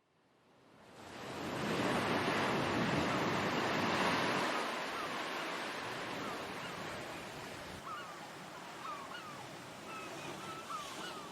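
Surf or wind-like rushing fades in over the first couple of seconds, then eases off. From about halfway through, birds call over it in a run of short, repeated chirps.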